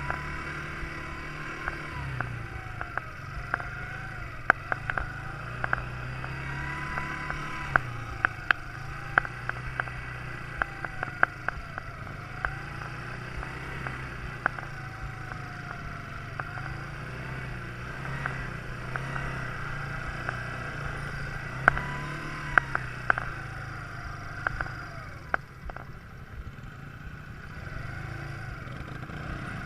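Quad bike engine running, its pitch rising and falling as the throttle is opened and closed, with frequent sharp knocks and rattles throughout.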